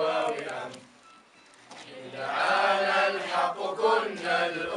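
A group of voices chanting together in unison, breaking off for about a second and then starting up again louder.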